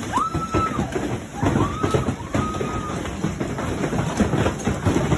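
Hailstones hammering on hard surfaces in a thunderstorm: a dense, irregular clatter of impacts over a low rumble. Three short high-pitched tones sound in the first three seconds.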